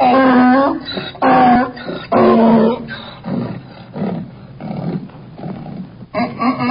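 Donkey braying: three loud pitched calls in quick succession, fading into softer breathy pulses, then another loud bray starting near the end.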